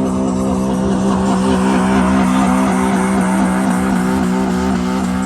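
Loud car engine held at steady high revs with tyres squealing, as in a burnout or donut; the revs drop as it lets off right at the end.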